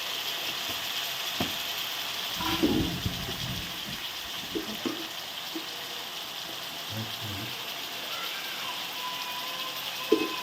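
Onion-tomato masala sizzling in oil in a large cooking pot, with a ladle scraping and knocking against the pot a few times.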